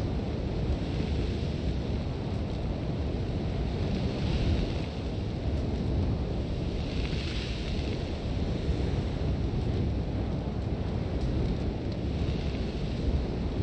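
Sandstorm wind buffeting, a steady low rumble with a hiss of blown sand that swells in gusts about four seconds in, again around seven seconds, and near the end.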